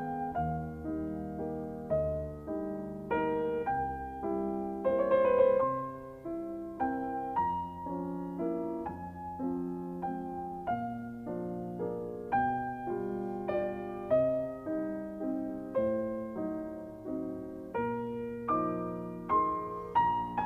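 Background piano music: a gentle melody over soft chords, notes struck at a steady walking pace.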